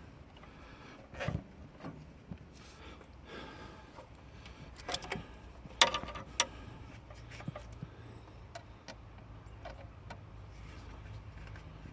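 Scattered clicks and knocks of hand work on an excavator's fuel pipes and hose fittings, the sharpest about six seconds in. A steady low hum comes in about halfway through.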